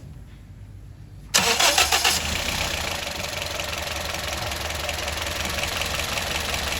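Toyota Corolla GLi engine cranking briefly and catching about a second and a half in, then settling into a steady idle.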